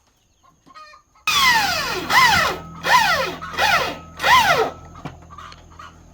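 Rooster crowing: one long call of four or five rising-and-falling syllables, starting about a second in. A low steady hum runs underneath.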